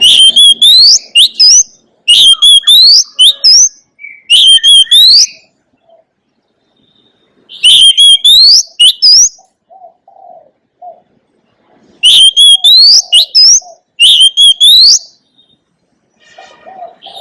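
Oriental magpie-robin singing: six loud phrases of sharp, rising whistled notes, each a second or two long, with short pauses between them. Softer low notes sound in the pauses.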